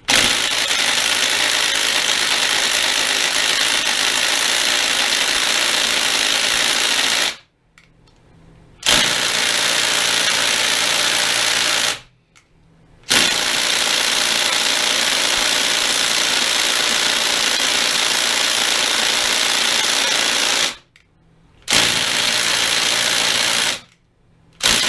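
Electric impact wrench hammering in five bursts of several seconds each, each one starting and stopping abruptly. It is trying to break loose the screw of a seized lathe cross-feed clutch.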